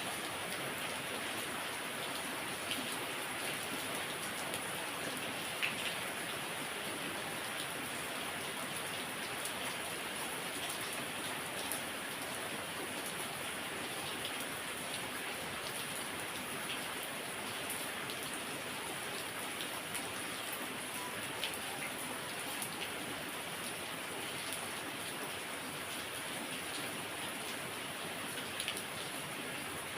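Heavy rain falling steadily, a continuous hiss with occasional louder individual drops ticking on a surface.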